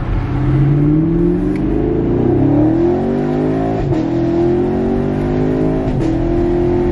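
Car engine accelerating hard through the gears, heard from inside the cabin. Its pitch climbs, drops at an upshift about four seconds in and again about six seconds in, then climbs on.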